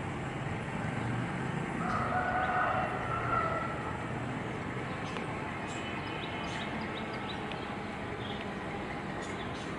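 Short high bird chirps scattered through the second half, over a steady city rumble. Near the start a drawn-out wavering tone lasts about a second and a half.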